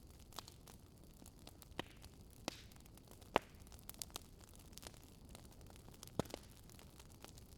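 Wood bonfire crackling: a low hiss of burning with scattered sharp pops and snaps, the loudest about three seconds in and another a little after six seconds.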